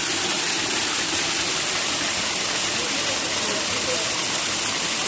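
Waterfall: a steady, unbroken rush of falling water, with faint voices underneath.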